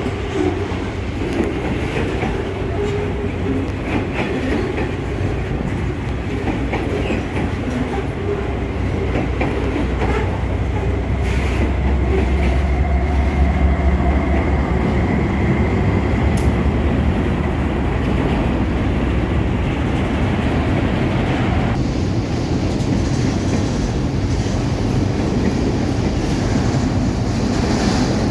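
Freight train of fertilizer wagons rolling past, a steady low rumble with the wheels clicking over rail joints, and a faint high squeal in the middle.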